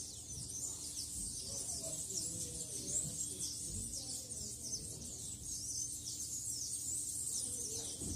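Many small birds chirping, with rapid, overlapping high-pitched calls.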